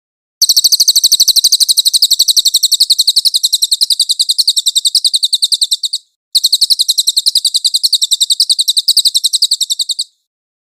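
A songbird's master-recording song: a rapid rolling trill of high, evenly repeated notes, about ten a second, in two long runs broken by a short gap about six seconds in.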